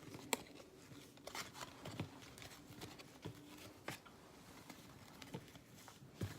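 Hockey trading cards being handled and flipped through by hand: faint, scattered flicks and taps of cardboard cards.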